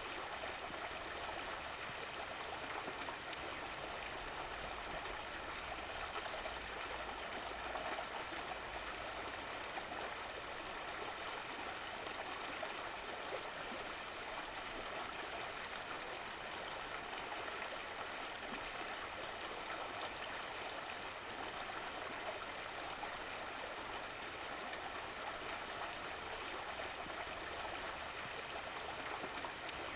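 Running water from a stream, flowing and trickling steadily without break.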